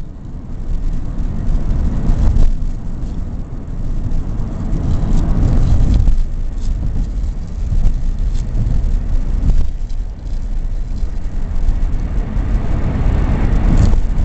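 Road noise inside a moving car's cabin: a steady low rumble of engine and tyres that swells and eases a few times.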